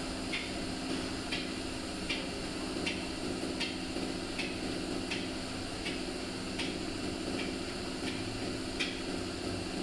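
Light, evenly paced taps of a hammer on sheet metal, about one every three-quarters of a second, typical of tapping out a dent in a door panel. A steady machine hum runs underneath.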